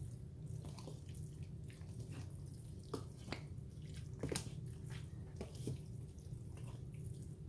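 Soft wet squishing and a few light clicks from butter being worked into a bowl of moist cornbread dressing mix, over a steady low hum.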